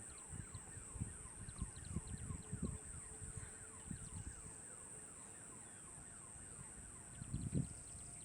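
Faint outdoor dawn ambience of many quick falling whistles repeating over and over, most likely birds calling, over a steady high hiss. Irregular low rumbles of wind buffet the microphone, strongest near the end.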